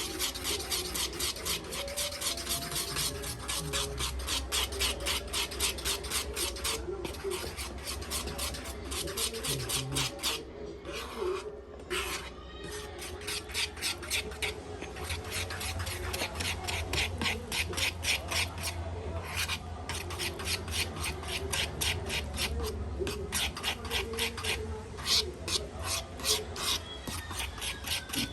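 Pancake batter being beaten by hand in a bowl: fast, even scraping strokes, about five a second, with a short break midway. A low rumble runs underneath.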